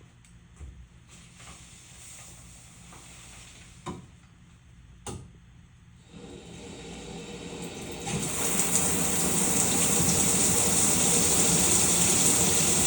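A few quiet knocks, then shower water starts running about six seconds in, building within two seconds to a steady, full spray.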